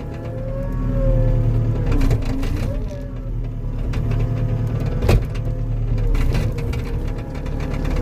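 Skid steer engine running under load, with a whine that rises and falls in pitch as the machine pushes against a tree to tear out its root ball. A single sharp knock about five seconds in.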